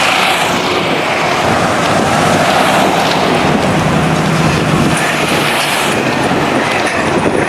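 Steady wind noise on the microphone mixed with street traffic and running vehicle engines.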